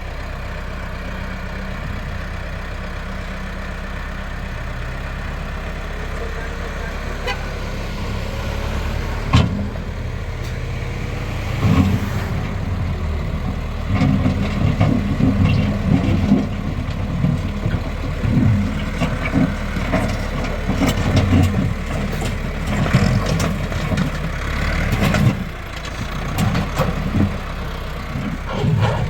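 Tractor engine running steadily. From about twelve seconds in, irregular knocking and clattering join it.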